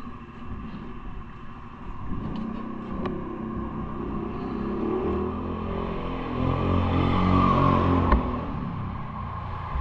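Motor vehicle engine running, growing louder to a peak about seven to eight seconds in, then dropping away.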